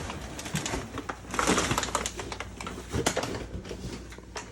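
Rustling, crunching and clicking of piled household garbage as someone moves through it, with a louder rustle about a second and a half in. Parakeets chirp in the background.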